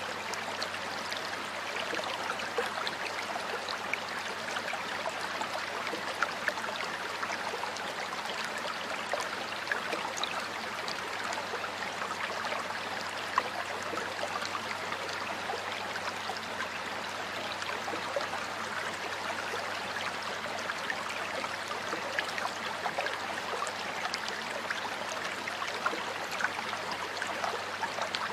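A stream of water flowing steadily, a continuous rush with fine splashes and gurgles, the odd louder splash now and then.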